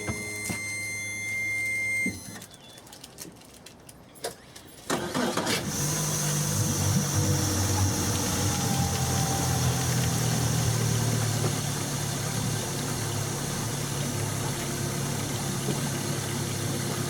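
A steady electronic tone for about two seconds, a few clicks, then about five seconds in a Yamaha F90C four-stroke outboard motor starts and settles into a steady idle.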